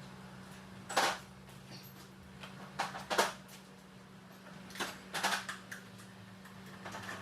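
Scattered sharp clicks and knocks, a few single ones and a quick cluster about five seconds in, over a steady low hum: typical of tools and parts being handled during an engine swap.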